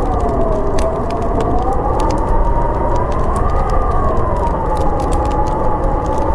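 Howling blizzard wind, a wavering whistle that dips early on, rises to a peak about halfway through and settles again, over a rushing roar, with the close crackle and pops of a wood fire throughout.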